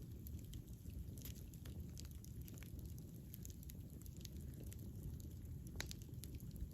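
Wood fire burning: a low steady rush of flame with scattered sharp crackles and pops, a couple of them louder.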